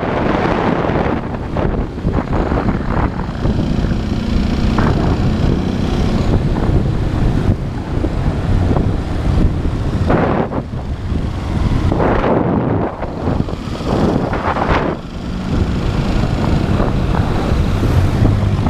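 Motorcycle running as it is ridden through city traffic, with heavy wind noise on an action camera's microphone; the sound surges louder a few times.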